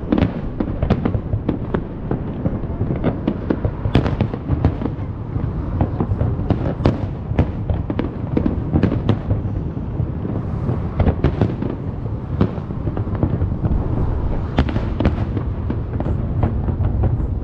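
Fireworks display: shells bursting in quick succession, a dense run of sharp bangs and crackles over a steady low rumble.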